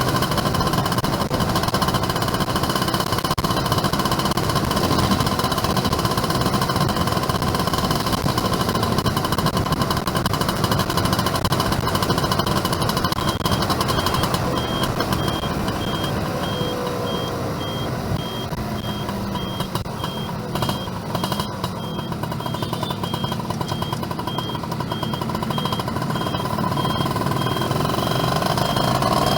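Yamaha F1ZR two-stroke motorcycle riding, its engine running steadily under a haze of wind and road noise. The engine eases off in the middle and picks up again near the end. From about halfway on, a fast, evenly repeating high beep sounds.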